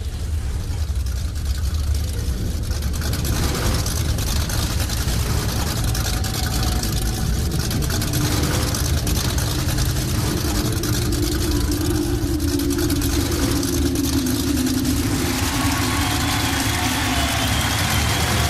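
Car engine idling, a steady low rumble. About eight seconds in a held low tone joins it, and more sound builds over the last few seconds.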